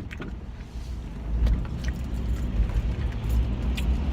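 Steady low road rumble of a car heard from inside the cabin while driving, growing louder about a second in, with a few light clicks.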